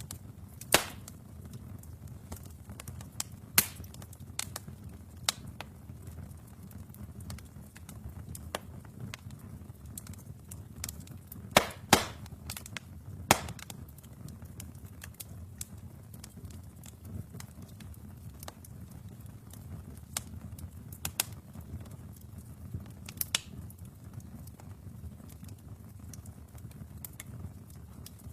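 Wood fire burning in a fireplace: a steady low rumble of flames with irregular sharp crackles and pops of the logs, a cluster of louder pops around the middle.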